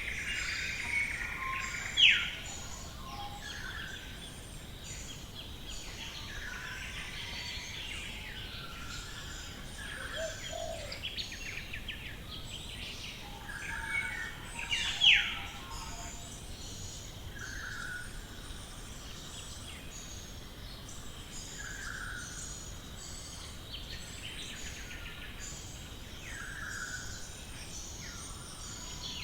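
Australian bush birds calling together in a dawn chorus: many overlapping chirps and whistles over a steady background hiss. Two loud, sharp whistles falling quickly in pitch stand out, about two seconds in and again about fifteen seconds in.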